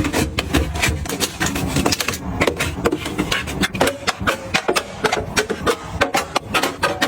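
Rapid, irregular clicks and clacks of small hard objects being handled, tapped together and set down, several a second.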